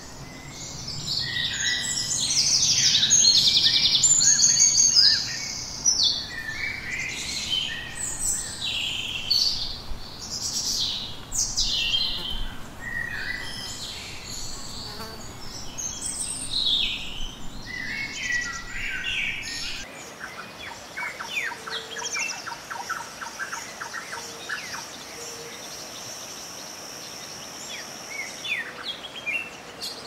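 Several wild birds singing and calling at once, with overlapping chirps, trills and rising and falling whistles. About 20 seconds in the sound changes to quicker, fainter chirping over a thin, high, steady buzz.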